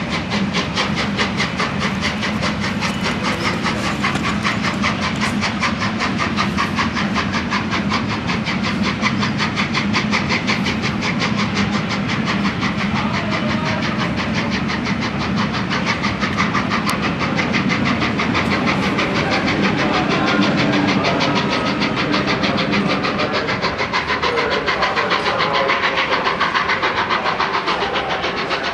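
Steam-hauled express train passing at speed behind 60163 Tornado, a three-cylinder A1 Pacific: a fast, even rhythmic beat with steam hiss and rail clatter throughout.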